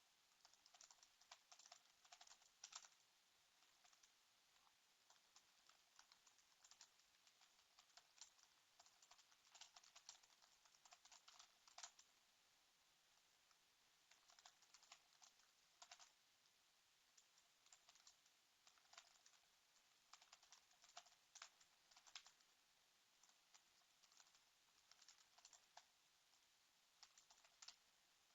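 Faint typing on a computer keyboard: irregular runs of keystroke clicks, with a pause of about two seconds near the middle.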